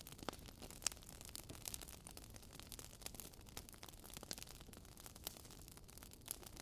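Wood fire in a fireplace crackling: irregular sharp pops and snaps of burning logs, the loudest just under a second in, over a faint low hiss.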